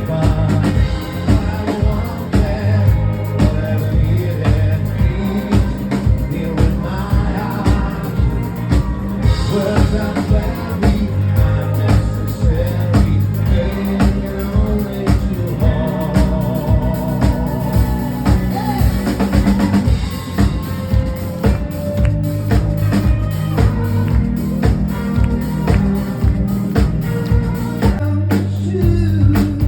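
Live rock band playing an instrumental passage, with the drum kit's steady beat and the bass to the fore.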